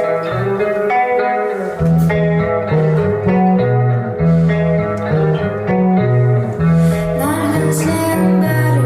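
Live band music: an electric guitar picks a repeating pattern of notes, and bass notes come in about two seconds in.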